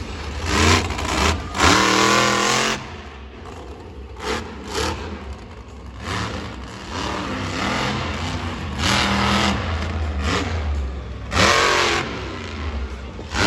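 Monster truck engine running and revving in repeated surges, the loudest bursts of revs about two seconds in and again near the end.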